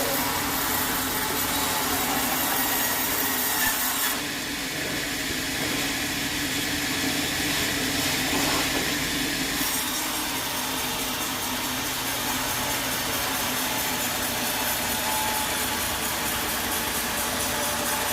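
Sawmill saw cutting through wood: a steady, noisy cutting sound that changes in tone about four seconds in and again near ten seconds.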